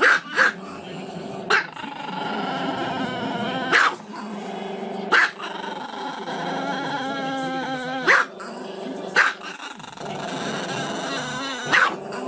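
A small black-and-tan Chihuahua howling with its head thrown back: long, wavering howls broken by about eight short, sharp barks.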